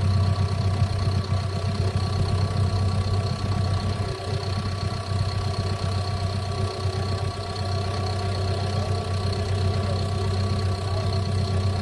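Cat bulldozer's diesel engine running steadily with a low, even hum.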